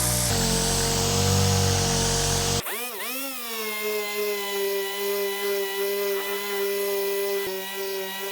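Dual-action (DA) sander with 80-grit paper sanding a car quarter panel, a loud rough grinding under load. About two and a half seconds in it comes off the panel and runs free with a steady high whine.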